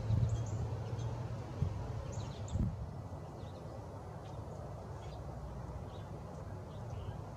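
Outdoor ambience at a bird feeder: short high chirps of small songbirds, a few clear ones in the first three seconds and fainter ones after, over a low steady rumble.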